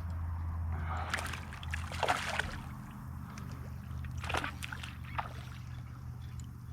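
Water splashing and sloshing around a kayak, with a few short, sharp splashes over a steady low hum.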